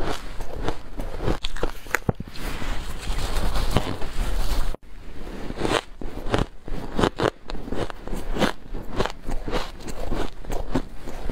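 Close-up bites into humidifier-grown freezer frost, a quick run of sharp crunching and crackling snaps, with a brief break about halfway through.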